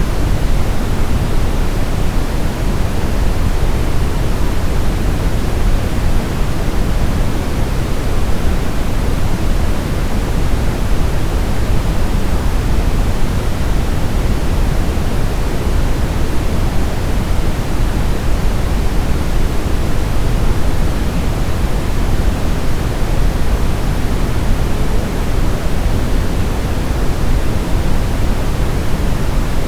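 Steady white noise for baby sleep: an even, unbroken rushing hiss, weighted toward the low end, that never changes.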